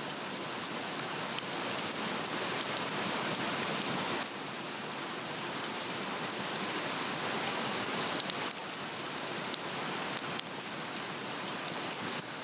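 A Swedish torch (a split log burning from inside its cross-cut slot) burning hard, with a steady rush of flame and faint crackles; the rush swells and eases slightly a few times.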